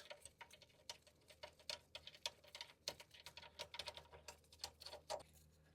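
Faint, irregular light clicks and ticks, the small sounds of hand tools and brake parts being handled during a motorcycle brake pad change.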